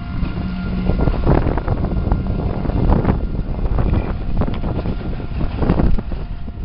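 Loud low rumble with wind buffeting the microphone, broken by irregular knocks and rattles.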